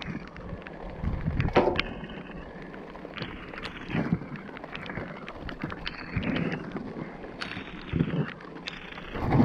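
Scrap being rummaged through by hand: scattered clunks and knocks, with louder thumps about every two seconds, over a steady hiss of rain and wind. It is muffled through a GoPro microphone that has taken on water.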